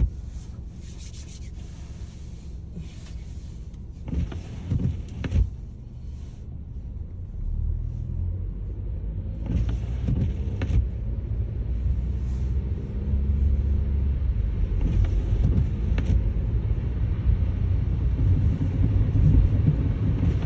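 Car driving, a low road and engine rumble heard from inside the cabin that grows louder about a third of the way in, with a few short knocks.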